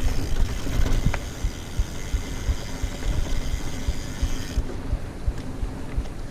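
A mountain bike rolling fast over a rough dirt trail: low knocks and rumble from the bumps. The rear freehub buzzes steadily as the rider coasts, stopping about two-thirds of the way through.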